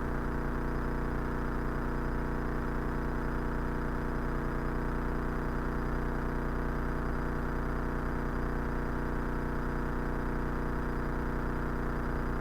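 Cessna 172's piston engine and propeller droning steadily in the cabin, with no change in pitch or level.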